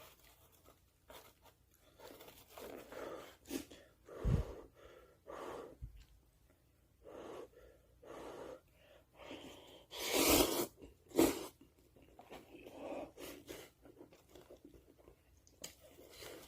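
Someone eating spicy cup noodles: short bursts of slurping and chewing, the loudest a long slurp about ten seconds in and a shorter one right after, with a couple of dull low thumps around four and six seconds in.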